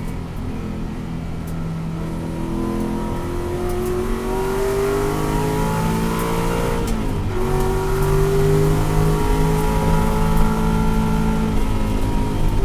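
2013 Ford Boss 302 race car's 5.0-litre V8 running hard under load, its pitch climbing slowly, then dropping sharply about seven seconds in as it shifts up, then climbing again and easing off slightly near the end.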